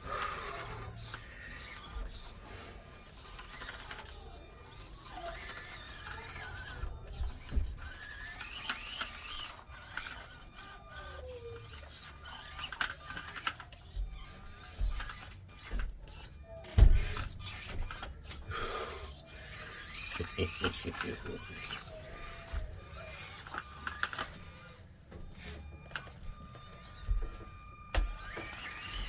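Axial SCX24 1/24-scale mini crawler driving over an obstacle course: its small electric motor and gears whine, rising and falling with the throttle, while the tires and chassis click and knock against the obstacles. One loud knock comes about 17 seconds in.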